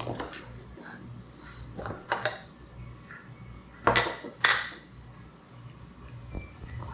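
Hard plastic parts knocking and clattering as they are handled and fitted together: a few sharp clicks and short scrapes, the loudest about four seconds in.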